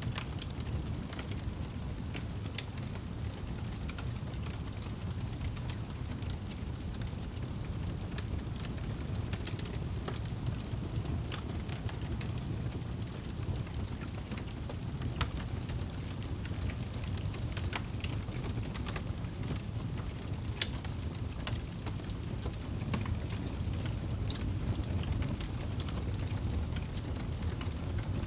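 Wood fire burning in a fireplace: a steady low rumble of flames with scattered sharp crackles and pops, a few every second.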